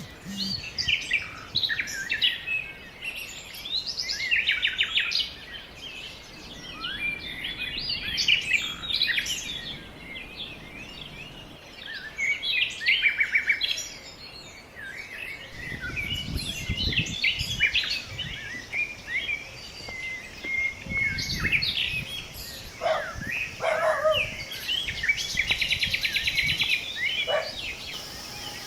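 Wild birds chirping and singing, several short calls and trills overlapping throughout. A low rumble comes in twice, about halfway through and again a few seconds later.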